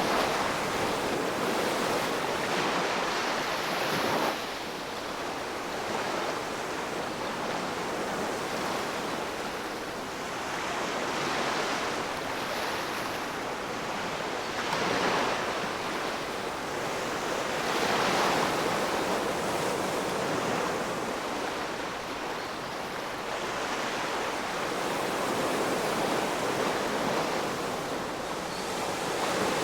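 Ocean surf: waves breaking and washing onto the shore in a continuous rush that swells and ebbs every few seconds.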